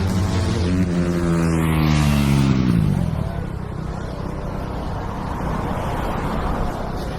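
A motorcycle engine going past with its pitch falling over about three seconds, then a rougher, steadier engine and road noise.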